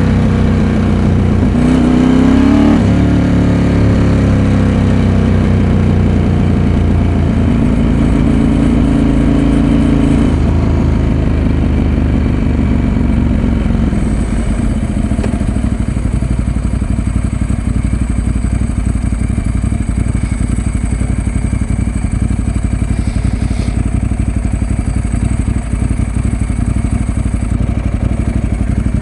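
Ducati 916's 90-degree V-twin engine pulling under way, revving up over the first few seconds, then settling into steadier, slightly quieter running from about halfway through.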